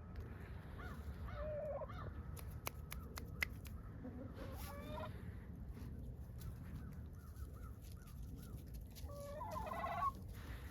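Chickens calling in three short bouts of squawks: about a second and a half in, around four and a half seconds, and again near the end, the last the loudest. A few sharp clicks fall between the first two, over a steady low rumble.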